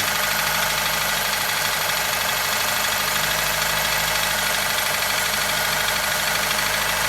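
Toyota 2SZ four-cylinder petrol engine idling steadily with a knock in it, which the owner says is stronger when the engine is cold.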